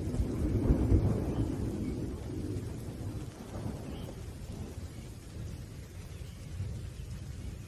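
Thunder rumbling deep and low, loudest about a second in and then slowly dying away, over steady rain.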